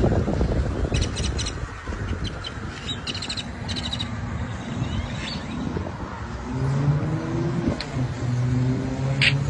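A large flock of birds calling over one another, with harsh rattling chirps standing out about a second in and again around three to four seconds in. In the second half a vehicle engine hum comes in beneath the flock, its pitch rising.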